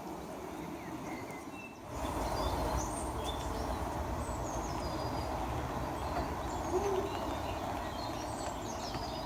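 Small birds chirping and whistling in quick, repeated short notes over a steady background noise, which gets louder abruptly about two seconds in.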